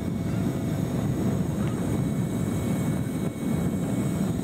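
Light aircraft's propeller engine running steadily in flight, heard from on board as a constant low drone mixed with wind noise.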